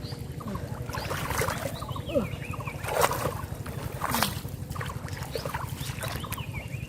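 Water splashing and sloshing in short bursts, loudest about three and four seconds in, over a steady low rumble.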